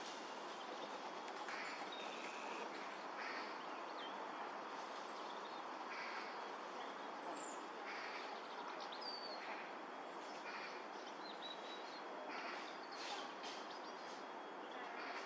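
European robin singing in scattered thin, high notes and short phrases, some sliding down in pitch, over a steady background rush.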